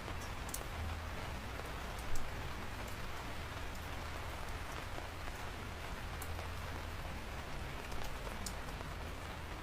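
Steady rain falling on a surface, with scattered individual drops ticking sharply and one louder knock about two seconds in.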